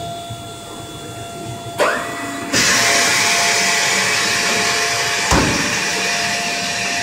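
Canadair T-33 hydraulic system working the speed brakes during a ground test. A clunk and a rising whine about two seconds in give way to a loud, steady rushing hiss of hydraulic flow, with a sharp thump about five seconds in, all over a constant hum.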